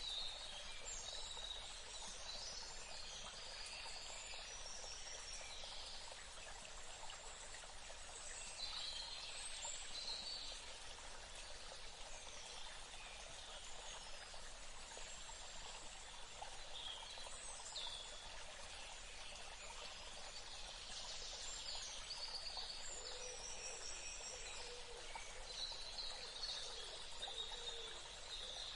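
Forest ambience: a steady rush of running water, with birds calling in short high phrases every few seconds over it.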